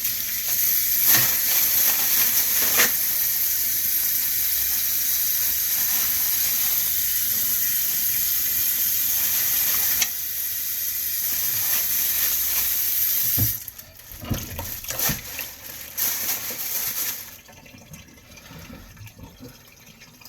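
Kitchen tap running steadily into a sink, then shut off about thirteen seconds in, followed by a few knocks and clatters.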